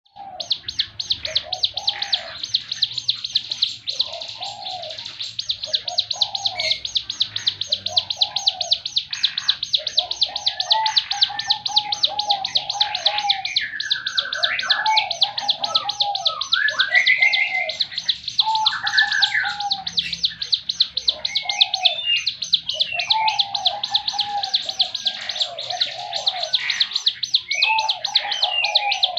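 Ciblek gunung, a prinia, singing its rapid-fire 'tembakan' song: a fast, even run of sharp high ticking notes, about five a second, with lower warbled phrases and short rising whistles mixed in.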